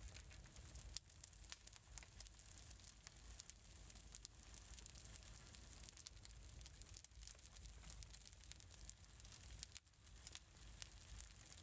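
Faint crackling wood fire in a fireplace: a steady low hiss with irregular small pops and snaps.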